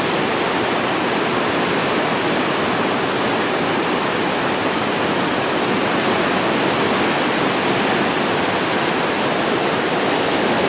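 Massive waterfall roaring steadily, a loud, constant rush of gushing water at the Devil's Throat of Iguazu Falls.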